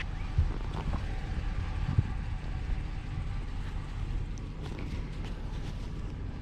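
Truck engine idling, a steady low rumble heard from inside the cab, with a couple of dull thumps in the first two seconds.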